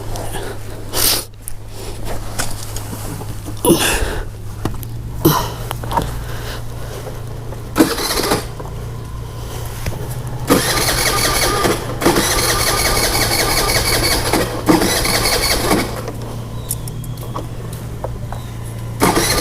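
Honda scooter's engine being cranked again and again without catching, a steady mechanical drone with sharp knocks, louder for several seconds past the middle: the scooter won't start.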